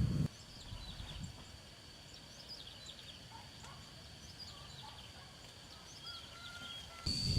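Outdoor ambience of many short, high bird chirps over a steady high-pitched drone. A louder low rumble of noise is there briefly at the start and returns near the end, where the high drone grows much louder.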